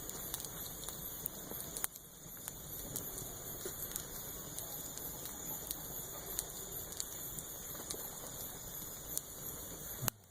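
Bonfire crackling: a steady rustling hiss with scattered sharp pops, dropping off abruptly near the end.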